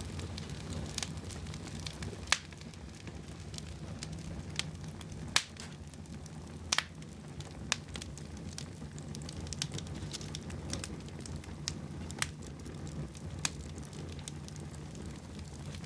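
Wood fire burning in a fireplace: a steady low rumble of flames with irregular sharp crackles and pops, a couple of them louder than the rest.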